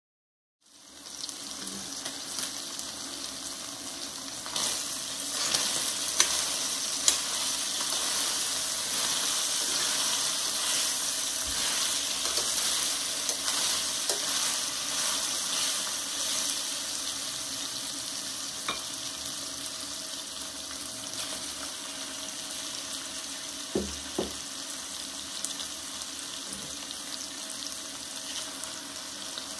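Chicken strips sizzling in a stainless steel pot as a steady hiss, stirred with a metal slotted spoon that clicks against the pot now and then. The sizzle starts suddenly about half a second in, and there are a couple of soft thumps near the end.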